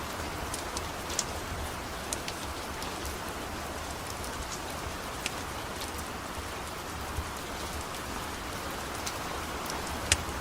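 Steady rain falling, with a few sharp crackles scattered through it, the loudest near the end.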